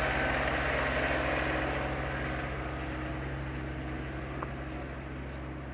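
City street traffic: a large vehicle's engine running with a steady low hum under road noise, gradually fading.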